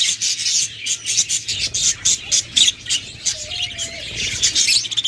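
Many caged budgerigars chattering and chirping together, a dense, continuous stream of rapid high chirps and warbles.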